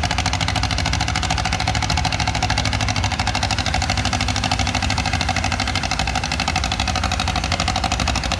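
An engine idling steadily with a fast, even beat and no change in speed.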